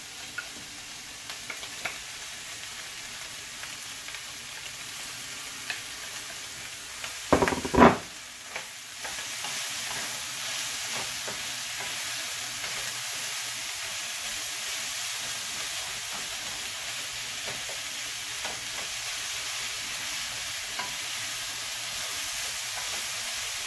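Beef and sliced onions sizzling in a hot nonstick frying pan while a wooden spoon stirs them. A few loud knocks come about seven to eight seconds in, and after that the sizzle runs louder and steady.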